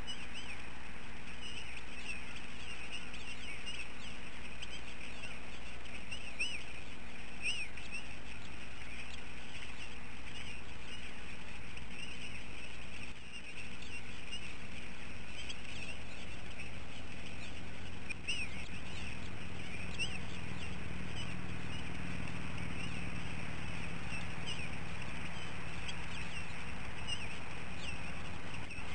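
Many short, high bird chirps scattered throughout, over a steady low hum.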